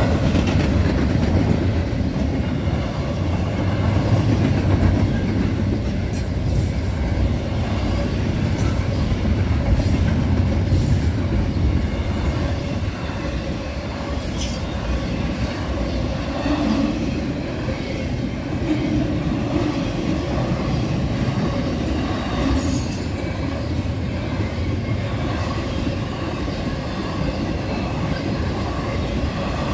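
CSX intermodal freight train rolling past at speed: a steady rumble of steel wheels on rail, with scattered short high squeals and clicks from the cars.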